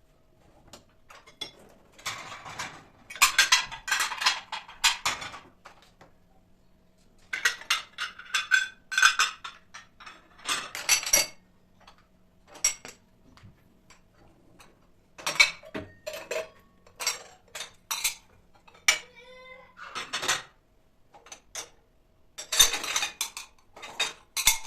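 Dishes and cutlery being handled, clinking and clattering in several bursts with short pauses between, over a faint steady hum.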